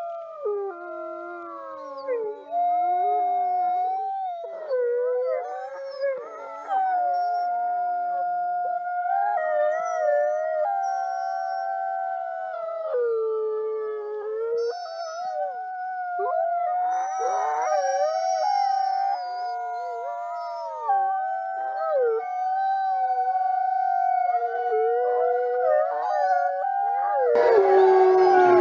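Several wolves howling together: long overlapping howls at different pitches that hold steady and glide up and down. A louder, noisy rush joins them about a second before the end.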